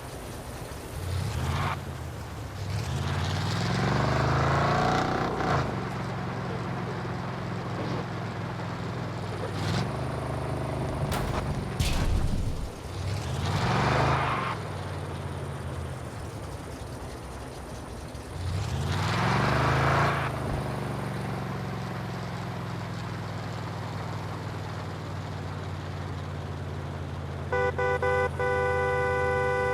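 Pickup truck engine running with several rising-and-falling revs as it is driven, a steady drone between them. Near the end a steady horn-like tone starts.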